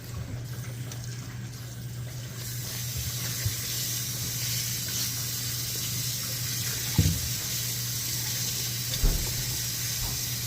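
Water running steadily, as from a tap, growing a little louder about two seconds in, with two dull thumps in the last few seconds.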